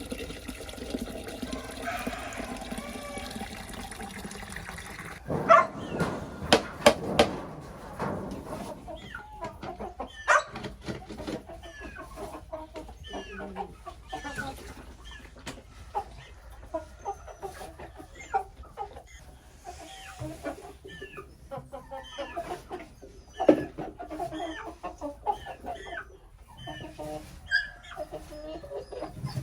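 Chickens clucking and calling, many short calls scattered through the stretch. A steady rushing sound fills the first five seconds, and a few sharp knocks come near the middle.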